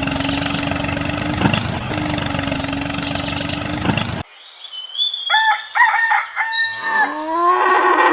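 A small motor runs with a steady hum and cuts off abruptly about four seconds in; a second later a rooster crows, one long stepped call.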